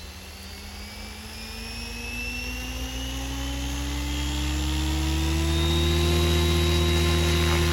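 SAB Goblin 570 electric RC helicopter spooling up after motor start: the motor whine and rotor sound rise steadily in pitch and loudness, then level off at flying head speed about six seconds in.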